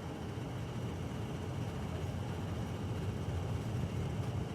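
Steady low rumble of a vehicle heard from inside its cabin, with no distinct events.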